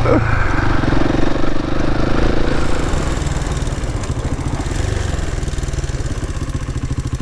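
KTM 690 Enduro's single-cylinder engine running at low speed; about three seconds in it gets quieter and settles into an even pulsing, like an idle.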